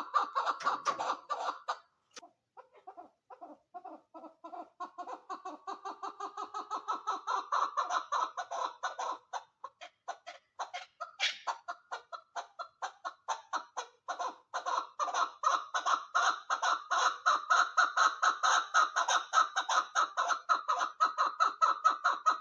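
Female chukar partridge calling: long runs of rapid, repeated clucking notes, several a second, with a short pause about two seconds in and a brief break around the middle, the calls growing louder in the last third.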